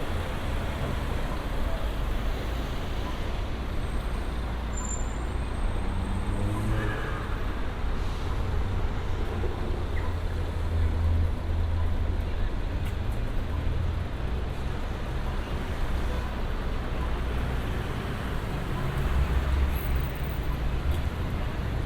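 Street traffic: a steady low rumble of engines and tyres from passing vehicles, swelling now and then as heavier vehicles go by.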